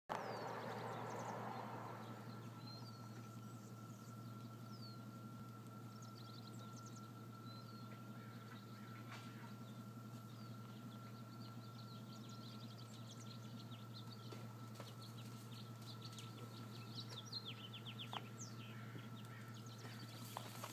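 Faint small birds chirping from the trees, with short sweeping calls and quick trills that grow busier in the second half, over a steady high tone and a low hum.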